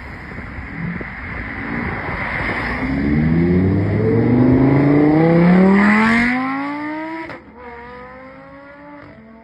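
Lamborghini Huracán STO's naturally aspirated 5.2-litre V10 accelerating, its note rising in pitch and getting louder, loudest about six seconds in. About seven seconds in the sound drops sharply, and a quieter engine note carries on.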